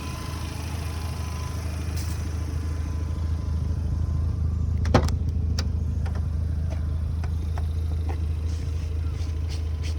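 Mazda RX-7 FD's 13B twin-turbo rotary engine idling steadily at operating temperature. A sharp click about five seconds in, then a few lighter ticks.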